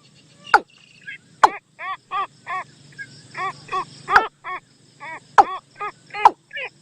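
Recorded bird calls played back as a trapping lure: a run of short nasal notes, each rising and falling, about three a second, mixed with sharp downward-sweeping click notes. A faint low electrical hum runs under the first half.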